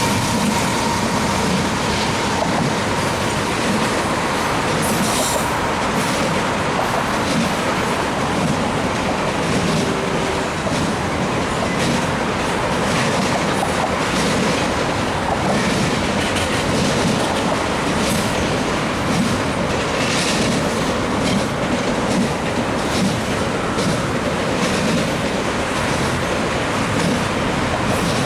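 CN intermodal stack train's freight cars rolling past at speed: a steady loud rumble with wheels clattering over rail joints and some wheel squeal.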